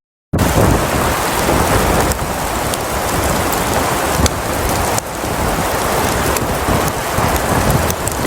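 Blizzard wind blowing hard across the microphone: a steady, loud rushing noise with heavy low rumbling buffets, starting abruptly just after the clip begins.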